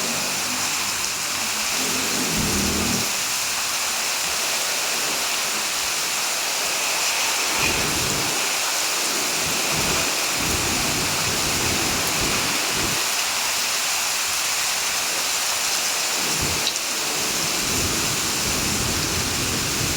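Heavy rain falling steadily, with irregular low rumbles coming and going in the middle and near the end.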